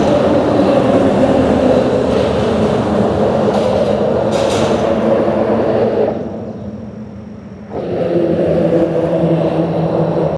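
Vehicle traffic rumbling across a bridge, a loud steady rumble with a droning hum. It fades about six seconds in and comes back abruptly near eight seconds.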